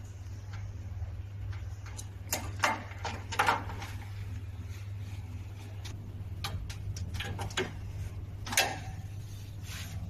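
Scattered clicks and scrapes of hands handling equipment parts, a few louder ones in the first half and one near the end, over a steady low electrical hum.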